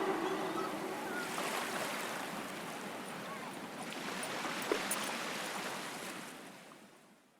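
A steady rushing noise, like surf or wind, that dies away to silence near the end; the last of a song fades out just at the start.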